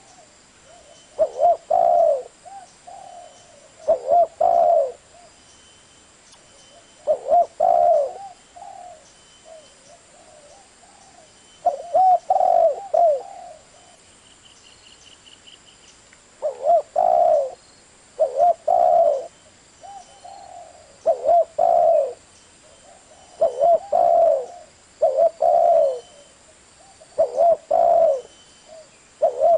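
Spotted dove cooing: low phrases of two or three coos repeated every few seconds, over a faint steady high whine.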